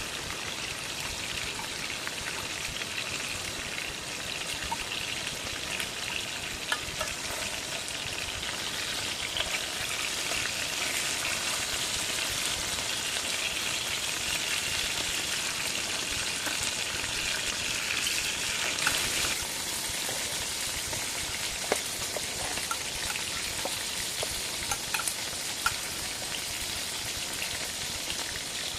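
Chicken breast frying in a pan, a steady sizzle with scattered small pops. The sizzle eases slightly about two-thirds of the way through.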